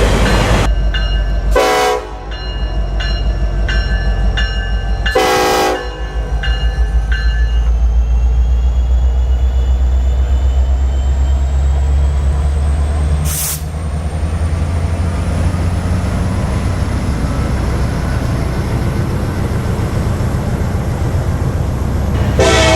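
Diesel locomotive horn of a moving excursion train: a blast ending just after the start, short blasts about two and five seconds in, and a long blast starting near the end. Under it runs the train's steady low rumble with a rhythmic clatter.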